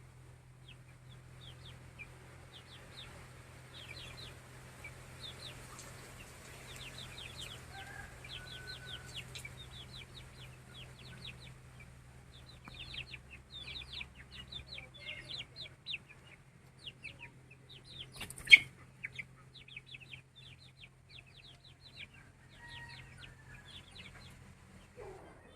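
Aseel chickens clucking and calling in many short, quick high notes, over a steady low hum. A single sharp click or knock stands out about two-thirds of the way through.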